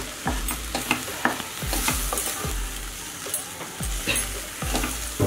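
Green beans with tomato and coconut paste sizzling as they stir-fry in a kadai, a steady frying hiss. A wooden spatula scrapes and knocks against the pan a few times a second as it stirs.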